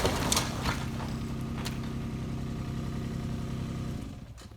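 Kubota U27-4 mini digger's diesel engine idling steadily, with a few light knocks in the first couple of seconds; the sound fades away near the end.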